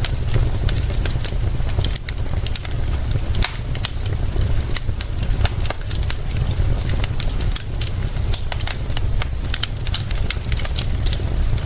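Wood fire crackling with frequent sharp pops, over a steady hiss of rain and a deep, continuous low rumble.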